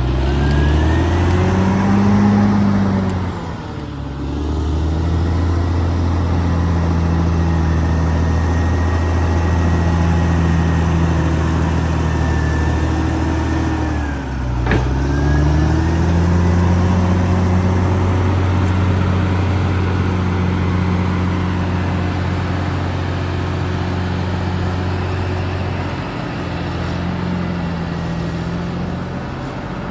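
Caterpillar D6R XL bulldozer's diesel engine running under load. Its pitch sags and recovers about three seconds in and again about halfway through, with a single sharp knock at the second dip.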